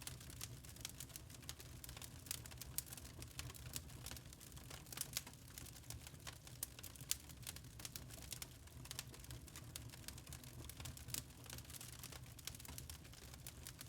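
Wood fire in a fireplace crackling and popping at irregular moments, with a low steady rumble underneath.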